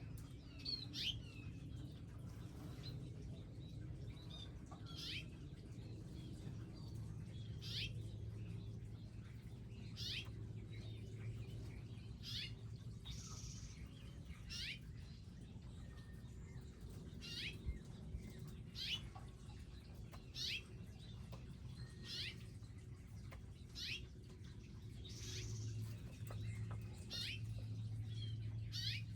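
Small wild birds chirping: short, sharp notes that sweep downward, repeated every second or two. A steady low hum runs underneath and grows louder twice.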